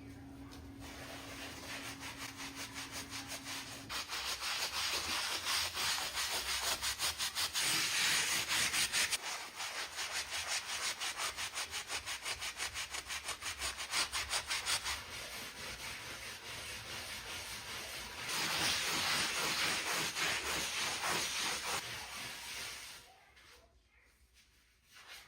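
Rapid, rhythmic back-and-forth scrubbing: something rubbing hard against a surface in quick even strokes, in two louder stretches, dying away near the end.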